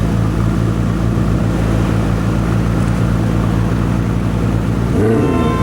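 Maserati Quattroporte GTS 4.7-litre V8 with a Larini sports exhaust, running at a steady low drone while the car is driven. About five seconds in, a different sound cuts in, with a pitch that rises and falls.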